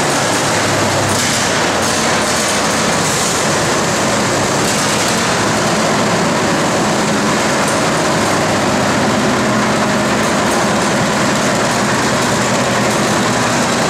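Antique farm tractor engine running, loud and steady, with a deep rumble under a wide roar.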